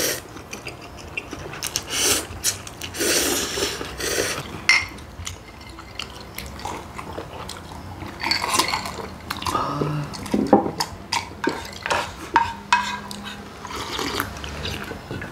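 Two people eating ramyeon noodles and gimbap close to the microphone: noodles slurped, gulps of water from glass mugs, and spoons and chopsticks clinking against bowls and dishes, in short irregular bursts.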